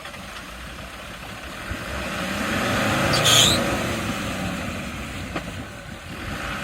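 Off-road vehicle passing close, its noise building to a peak with a brief sharp hiss about three seconds in, then fading.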